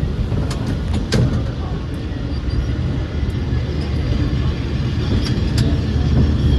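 San Francisco cable car in motion: a steady low rumble with a few sharp metallic clanks, about a second in and twice around five seconds in.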